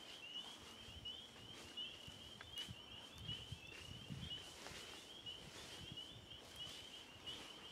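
Faint, steady high-pitched trill from a distant animal in the woods, with a few soft low thuds about midway through.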